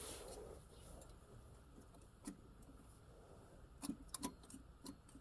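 Near silence with a few faint, short clicks and taps, one a little after two seconds in and a cluster of them in the second half.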